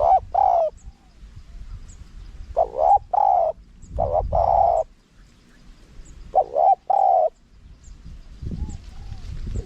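Spotted dove cooing in four short phrases, each of one to three rising-and-falling coo notes with the last held longest, over a low rumble.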